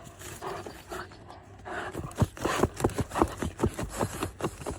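A Presa Canario–Labrador mix dog panting, with a busy run of short scrapes and scratches starting about halfway through.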